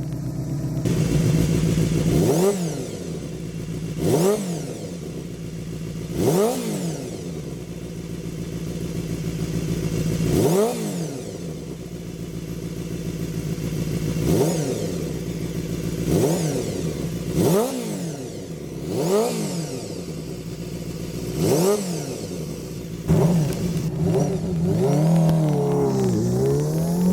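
Honda Jade 250's inline-four motorcycle engine running through a ZZYA short-pipe exhaust, idling and blipped over and over. About ten quick revs each rise and fall sharply, and a slower rev climbs near the end.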